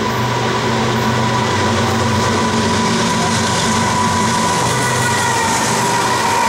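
A BNSF double-stack freight train's lead diesel locomotives approach and pass close by. The engines drone steadily under the noise of wheels on rail, which grows a little louder as the lead unit goes past.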